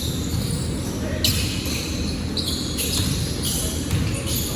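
Basketball game sounds in a gym: the ball bouncing on the court amid shuffling players and background voices.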